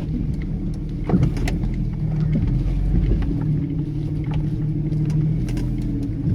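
Off-road vehicle's engine running steadily at low revs as it crawls down a rutted trail, the pitch rising slightly in the middle, with a few knocks about a second in.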